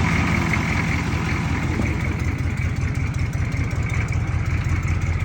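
1986 M1009 CUCV's 6.2-litre V8 diesel engine idling steadily, with a fast even pulsing, shortly after its first start.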